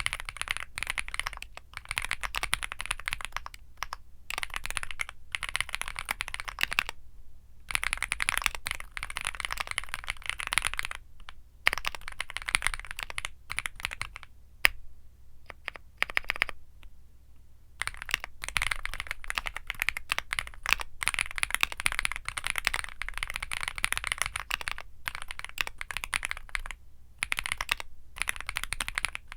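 Womier SK75 mechanical keyboard with Womier Mint Blizzard switches being typed on in fast, dense runs of keystrokes. The runs break off in a few short pauses, the longest lasting a couple of seconds a little past the middle, with a single sharp key click in it.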